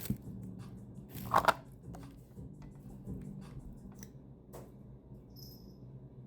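Handling noises: scattered light clicks and taps, with a brief louder rustle about a second and a half in.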